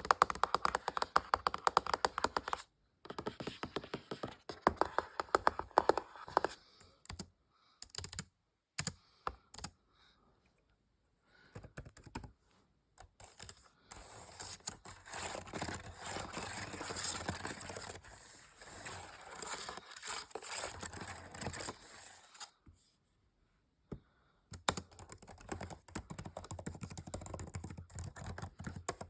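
ASMR fast tapping on small objects in quick rapid runs, broken by short pauses and a few separate taps. Through the middle stretch the tapping gives way to a steadier scratching texture.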